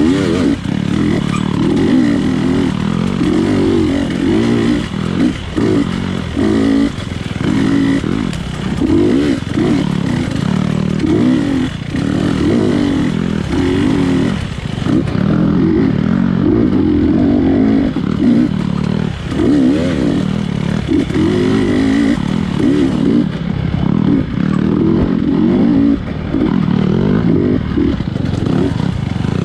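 GasGas 250cc dirt bike engine racing hard, its revs rising and falling every second or so as the throttle is opened and chopped.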